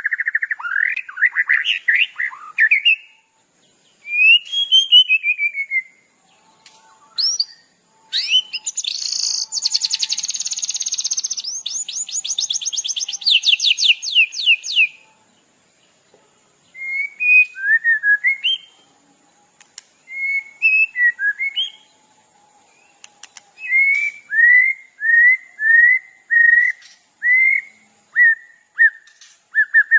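Songbird singing in separate phrases: sliding whistled notes and chirps with short pauses between them, a fast, dense trill lasting several seconds about eight seconds in, and near the end a run of about six short repeated notes, roughly one a second.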